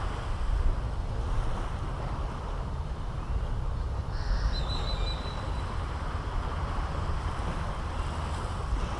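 Caribbean Sea surf washing steadily onto the beach, with wind rumbling on the microphone. A brief high chirp, typical of a bird, sounds about halfway through.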